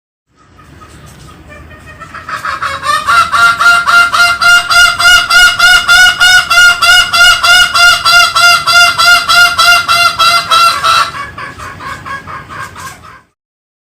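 Green junglefowl calling in a fast, even series of honking notes, about four a second. The calls build up from faint over the first couple of seconds, hold steady and loud, then drop off and stop abruptly near the end.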